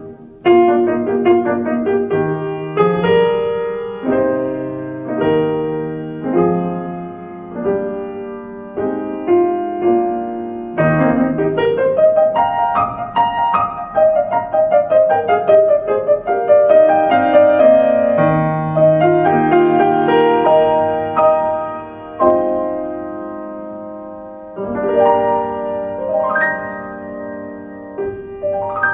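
Solo piano playing a song accompaniment with no voice: struck chords and melody notes, a fast run of notes climbing and falling back in the middle, and quick upward sweeps near the end.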